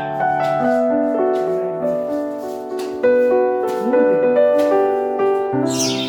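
Background piano music, slow sustained notes and chords changing every half second or so.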